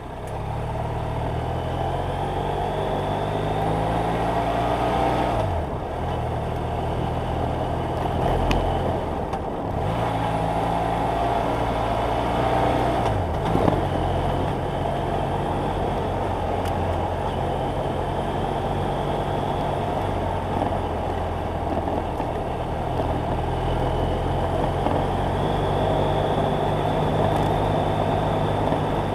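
BMW F800GS Adventure's parallel-twin engine running under way, its pitch climbing and then dropping at gear changes about five and thirteen seconds in, with a steady rush of wind.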